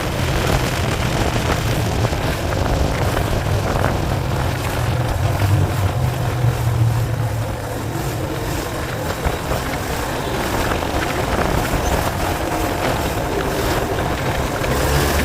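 Yamaha Fazer FZ25 single-cylinder engine running under way, a steady low drone with wind rushing over the microphone.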